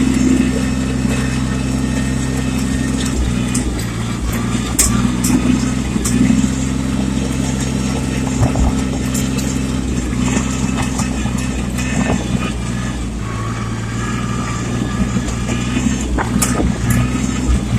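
Small Yanmar diesel tractor engine running steadily while driving, its note shifting slightly a few times, with a few sharp clicks and rattles over it.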